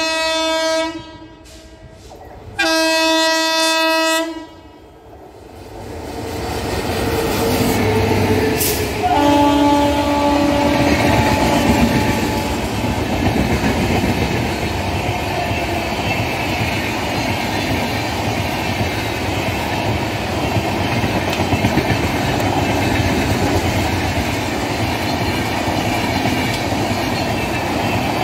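Express train horning and passing at speed on an electrified line: two long horn blasts, then the noise of the approaching train building up, a third, lower-pitched horn blast about nine seconds in as the locomotive goes by, and the steady noise of the passenger coaches rolling past on the near track.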